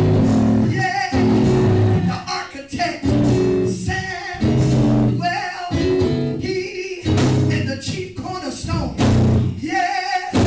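Live church band music with bass guitar and guitar in short repeated phrases, and singing over it.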